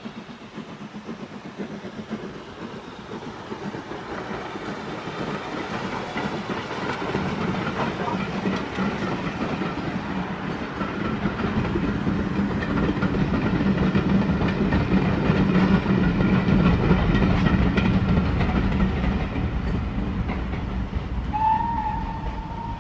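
Steam-hauled passenger train passing: the wheels clatter over the rail joints, growing louder to a peak as the coaches go by and then fading. A short high tone sounds near the end.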